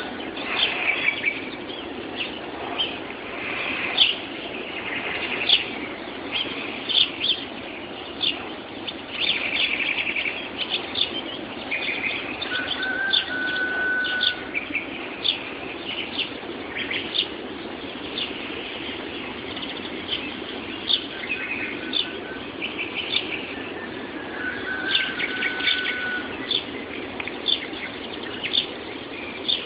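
Morning chorus of many songbirds singing at once: dense short chirps and trills, with a clear held whistle rising out of them twice. A steady low background rumble runs underneath, and the sound is dull and thin, as through a mobile phone's microphone.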